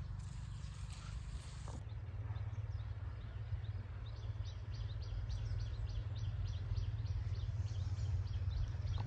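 A bird chirping in a quick run of short high notes, about four a second, starting a couple of seconds in, over a steady low rumble.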